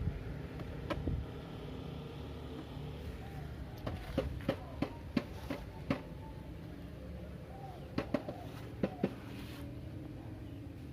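Sharp metallic clicks and taps of hand tools working on metal, about six in quick succession around four to six seconds in and a few more near eight to nine seconds, over a steady low engine hum.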